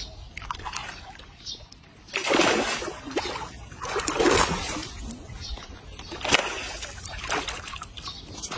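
Water splashing and sloshing in repeated surges, one every second or two.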